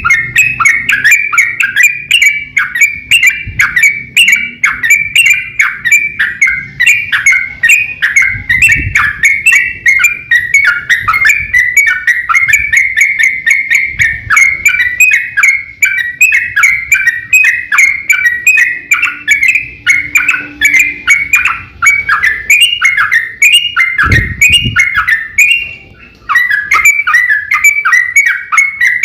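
Trucukan (yellow-vented bulbul) singing in a rapid, continuous 'ropel' chatter, about four to five quick notes a second, with a short pause near the end. A couple of faint low thumps sound under the song.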